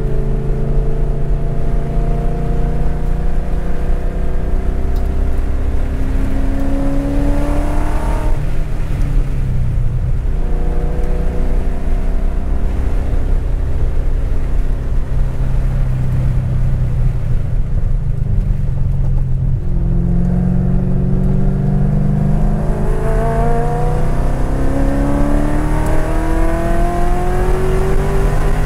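2010 Corvette Grand Sport's 6.2-litre LS3 V8 under hard acceleration on track, heard from inside the cabin. The engine note climbs, drops about eight seconds in, runs fairly level, then climbs in a long pull through the second half before falling away near the end.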